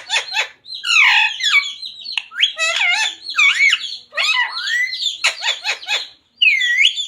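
Pet green parrot vocalizing: quick rattling chatter, sliding squawks and speech-like mimic talk, with a curved dipping whistle near the end.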